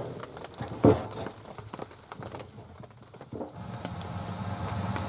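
Rain pattering in scattered small clicks, with one brief loud sound about a second in. A low steady rumble joins about three and a half seconds in.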